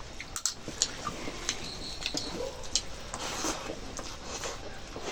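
A person eating rice with chicken curry, chewing with wet, squishy mouth noises and scattered small clicks.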